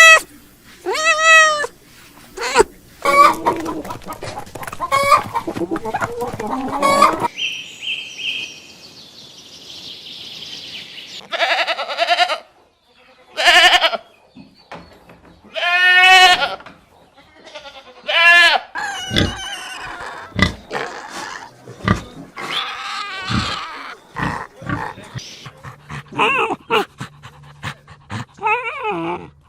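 Goats bleating over and over, a run of wavering calls every second or two, some short and some drawn out.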